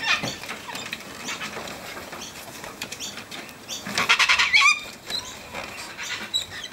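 Sulphur-crested cockatoos at a windowsill: light scratching, pecking and tapping of beaks and feet, with a short harsh squawk about four seconds in.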